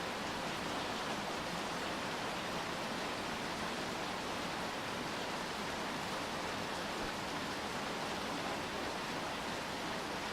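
Steady rainfall: an even hiss with no single drops or other sounds standing out.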